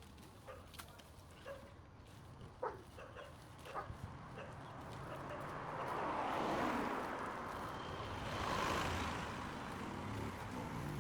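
Road vehicles passing by, two in turn, each swelling and fading, the loudest about six and about eight and a half seconds in. Before them come a few faint short calls, like distant dog barks.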